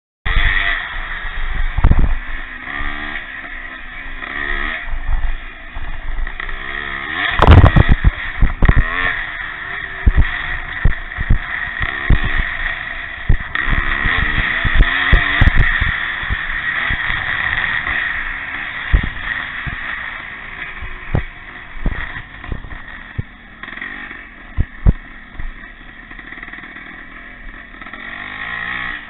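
Pre-65 classic motocross motorcycles racing, engines revving up and down as the bikes go by. Frequent sharp thumps are heard, the loudest about seven seconds in.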